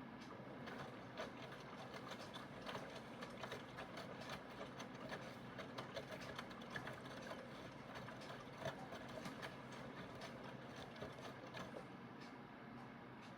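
Aidoo 1 kg mini washing machine's direct-drive motor turning the drum during the wash. There is a steady hum, with a stream of irregular small clicks and knocks from the tumbling load that dies down about twelve seconds in.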